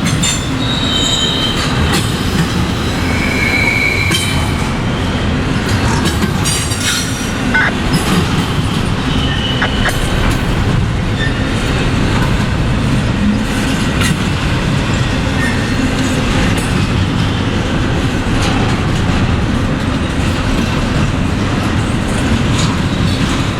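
Norfolk Southern freight train rolling past with a steady rumble of cars and clicking wheels on the rail. Short, high wheel squeals come several times in the first ten seconds or so.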